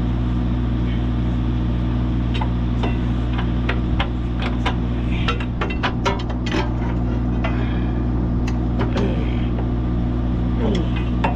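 An engine idles steadily throughout, with scattered sharp metal clinks and knocks from an engine being worked onto its mounts, busiest in the middle.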